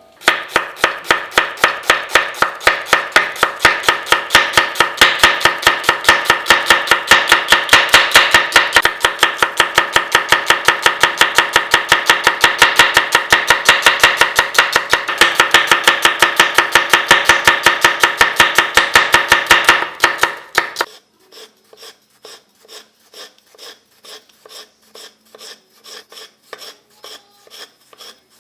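Knife chopping quickly on a cutting board, about four to five even strokes a second. About two-thirds of the way through it stops and gives way to softer, slower strokes, about one or two a second.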